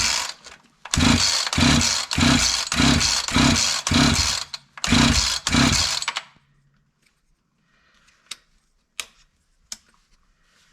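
Husqvarna 345 two-stroke chainsaw being pull-started over and over, about nine quick yanks of the recoil starter half a second apart, with the engine not catching even with fuel squirted into the carburetor. A few light clicks follow near the end.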